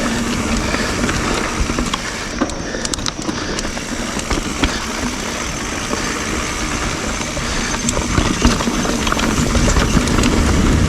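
YT Jeffsy full-suspension mountain bike rolling fast along dirt singletrack: steady rushing tyre and wind noise, with scattered clicks and knocks from the chain and frame over bumps.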